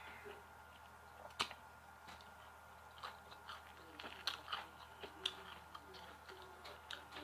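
A person chewing crunchy fried chicken close to the microphone: soft crunches and mouth clicks, with a sharper crunch about a second and a half in and a run of crunches from about four to five and a half seconds.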